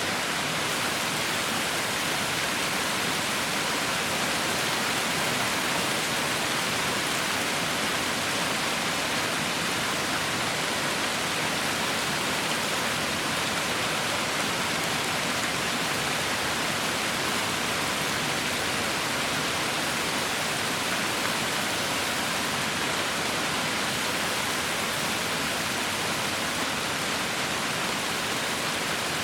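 Heavy rain falling steadily: a dense, even hiss without distinct drops, thunder or changes.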